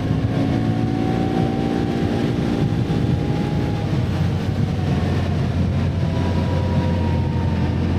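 Can-Am ATV engine running under way at a steady speed, its pitch drifting slightly up and down with the throttle.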